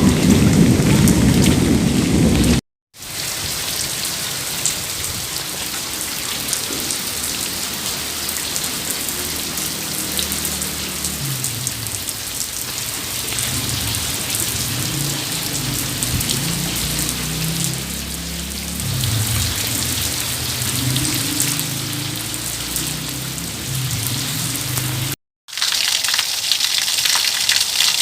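Steady rain falling, in joined recordings with two short silent breaks: a loud low rumble under the rain for the first couple of seconds, and a brighter, hissier rush of water after the second break near the end.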